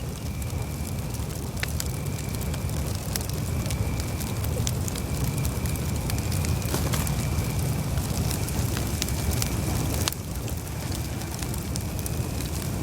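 Campfire burning: a steady low rumble of flames with scattered sharp crackles and pops of burning wood, one louder pop about ten seconds in.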